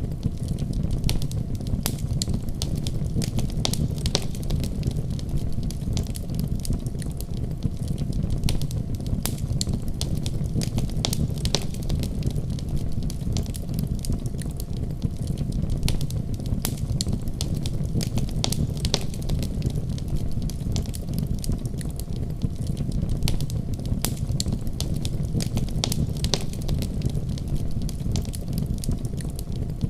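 Wood fire crackling in a fireplace: frequent irregular sharp pops and snaps over a steady low rush of burning.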